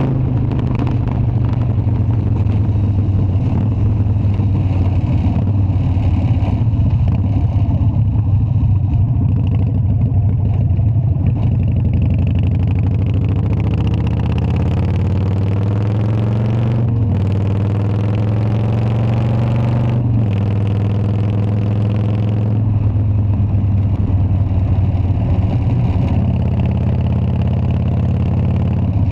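Harley-Davidson Dyna's V-twin engine running steadily. About halfway through, its pitch rises twice in a row, each rise ending in a sudden drop, as when the engine is revved up or pulls through the gears.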